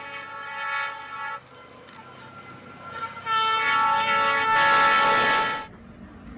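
Train horn sounding a chord in two blasts: the first stops about a second and a half in, and a second, louder blast starts about three seconds in and cuts off suddenly near the end.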